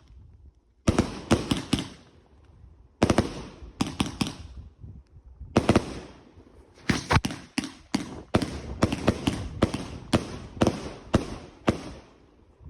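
Fireworks going off in quick volleys of sharp bangs: short clusters at first, then a dense, rapid run of bangs for the last few seconds.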